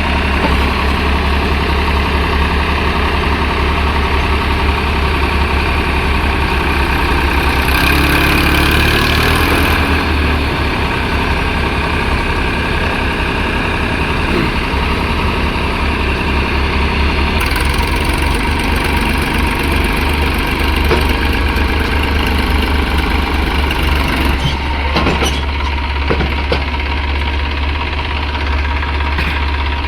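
Diesel tractor engine running steadily with a low, even throb, picking up briefly about a third of the way in.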